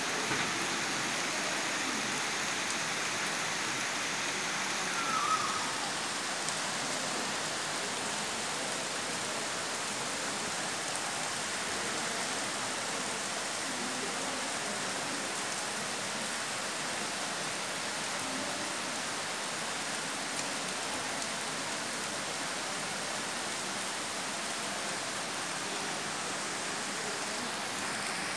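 Torrential rain pouring steadily onto surfaces, a heavy downpour. A brief, slightly louder higher-pitched sound stands out about five seconds in.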